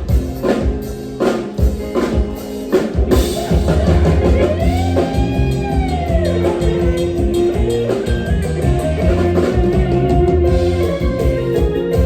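Isan mor lam band music in toei style: drum kit and bass with sharp drum hits in the first three seconds, then a fuller steady groove with a melody line that bends up and back down about four to six seconds in.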